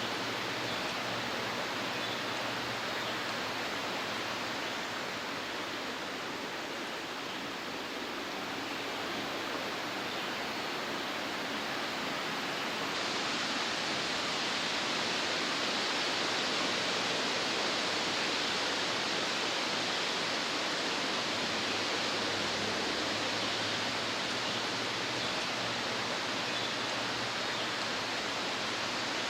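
Waterfall rushing, a steady sound of falling water that grows louder and hissier about 13 seconds in.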